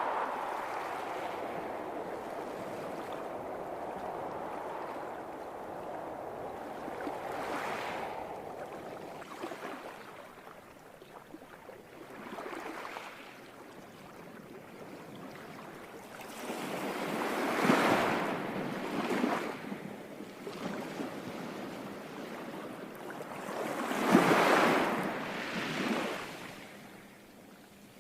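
Waves washing in: a rushing water hiss that eases off, then swells up loudly twice in the second half as waves break.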